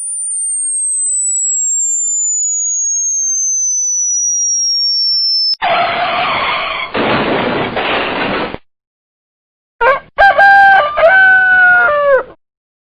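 A string of separate sound effects. First a single pure tone slides steadily downward from very high for about five and a half seconds. After a short gap comes about three seconds of rough noise, and a second later a loud pitched call of about two seconds, with several short breaks and pitch bends at the ends of each part.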